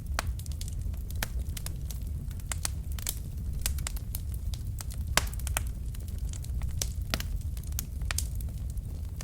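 Logs burning in a fireplace: irregular sharp crackles and pops over a steady low rumble of the flames, with one louder pop about five seconds in.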